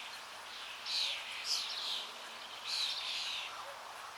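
Small birds chirping and twittering in two short bursts, one about a second in and another near the end, over a faint steady hiss.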